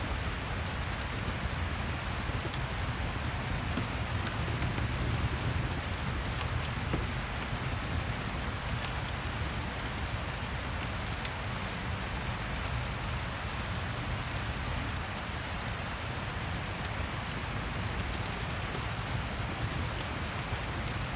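Steady rain with a low rumble beneath it, mixed with the faint, scattered crackle of a fireplace.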